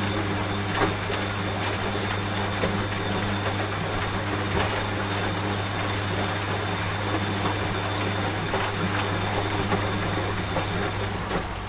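Rain falling over a washing machine running: an even patter of rain with scattered drops, over the machine's steady low motor hum. A faint high whine stops near the end.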